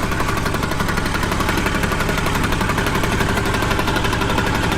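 Speedboat engine running steadily at speed, with a fast, even pulsing.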